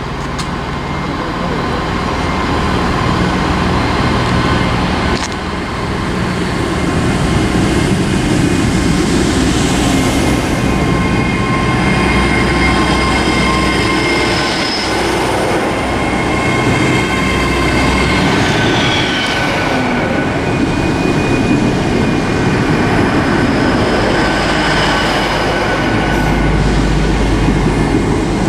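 A Great Western Railway Class 802 bi-mode train pulling slowly out of the station, a steady loud rumble of wheels and running gear with high thin wheel squeals coming and going, one sliding down in pitch about two-thirds of the way through.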